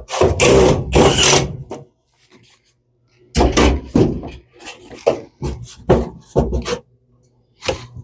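Hand-tool scraping or rasping strokes on sheet metal: two longer strokes at first, then after a pause a quick run of short strokes, about three a second, and one more near the end.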